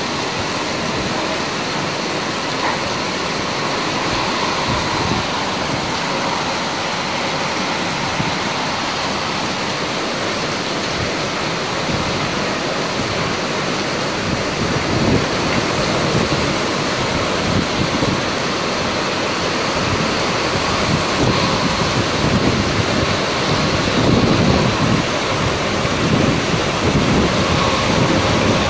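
Heavy monsoon downpour pouring steadily, with strong wind gusts buffeting the microphone that grow stronger in the second half.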